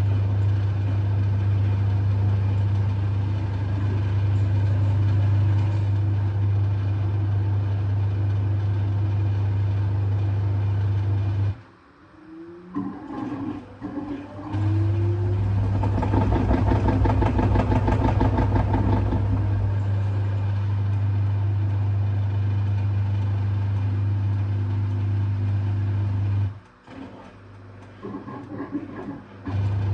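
LG F1222TD washing machine's drain pump humming steadily as it pumps out thick suds. It stops for a few seconds twice, and just after it first restarts there is a rougher, gurgling stretch. The owner first took this for a blocked pump, but the cause was sud lock.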